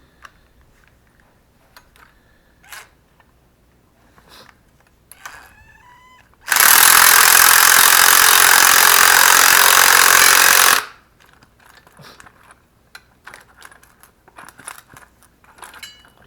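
A power tool runs loud and steady for about four seconds, starting and stopping abruptly about halfway in, amid light clicks and clatter of tools being handled.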